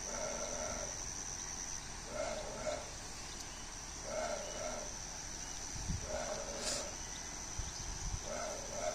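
Low call of an unfamiliar bird, each about half a second long and repeated five times, about every two seconds, over the steady high trill of crickets.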